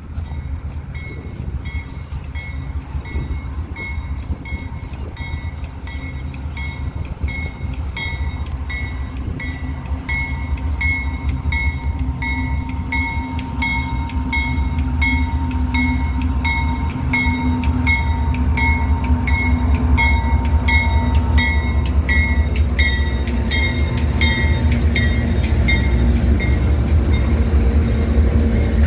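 Diesel freight locomotives hauling a double-stack container train, the low engine drone growing louder as the train approaches and the locomotives pass close by. A sharp, regular clicking about twice a second runs through it.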